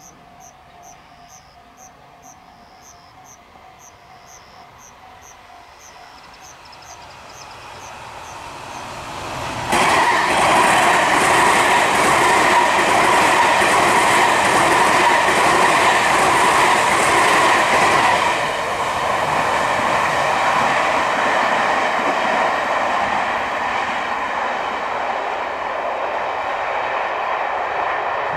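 Electric commuter train on the Tobu line approaching, then passing close by with a loud rumble and wheel clatter starting suddenly about ten seconds in; after about eighteen seconds the noise eases a little but carries on. Crickets chirp faintly at first, fading as the train draws near.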